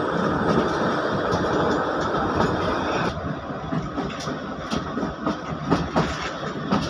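Kalka–Shimla narrow-gauge train running, its wheels clattering over the rails. A steady roar fills the first three seconds, then drops away, leaving irregular knocks and clicks.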